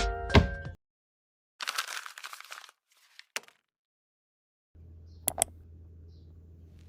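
Background music cuts off; then a brief crinkling rustle of handled material, a couple of light clicks, and a faint steady hum with two quick taps close together.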